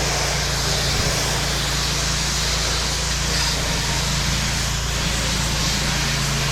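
Pressure-washing rig's engine running steadily, with a continuous hiss of water spraying from the wand onto vinyl siding.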